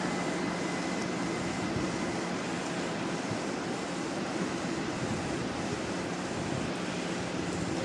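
Stationary ICE electric train's auxiliary systems running: a steady low hum under an even rushing noise from its ventilation and cooling fans, with a faint high whine in the first couple of seconds.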